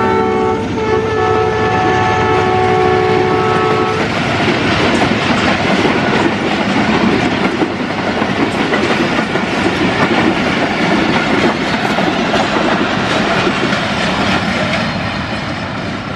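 A Pakistan Railways express train passing close at speed, its locomotive's multi-tone air horn held for about four seconds and then cut off. Then the loud, steady noise of the coaches' wheels running over the rails, easing a little near the end.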